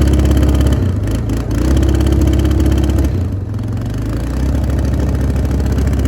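Yamaha Grizzly 350 quad bike's single-cylinder four-stroke engine, loud and close: the engine is held up for under a second, dips briefly, is held up again for about a second and a half, then settles to a lower steady speed about three seconds in.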